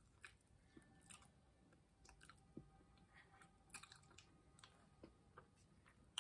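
Faint chewing and mouth sounds: soft, scattered wet clicks and smacks of someone eating with the mouth closed.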